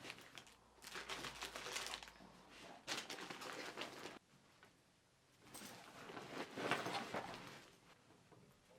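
Quiet rustling and crinkling of things being handled, in three stretches of a second or two each.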